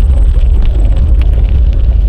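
Wind buffeting an action camera's microphone while cycling: a loud, unsteady low rumble, with scattered light ticks and crackles over it.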